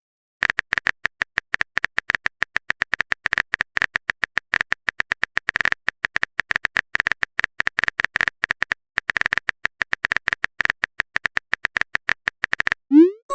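Rapid, uneven typing clicks, several a second, of a keyboard-typing sound effect. They start about half a second in and stop shortly before the end.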